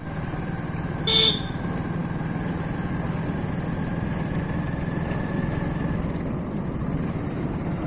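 Motorcycle engine running steadily while riding, with one short horn beep about a second in, the loudest sound.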